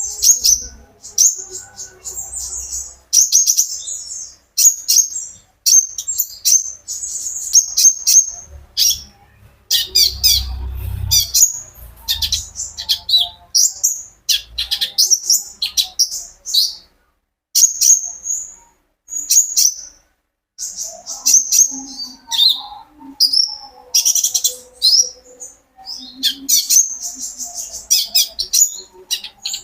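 Caged konin bird singing: rapid, high-pitched chirping and twittering phrases in quick bursts, separated by short pauses.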